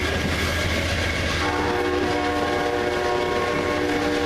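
Amtrak passenger train rolling past on the rails with a steady low rumble and wheel clatter, while the diesel locomotive's air horn sounds a long held chord up ahead that breaks off for about a second near the start and then resumes.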